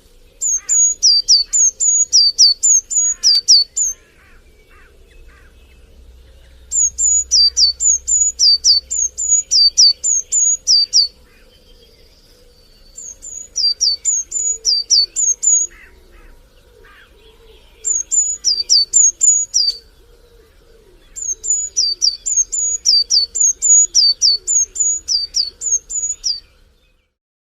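A songbird singing in five bursts of rapid, high, down-slurred notes, each burst a few seconds long with short pauses between, while other birds chirp faintly. The song cuts off suddenly near the end.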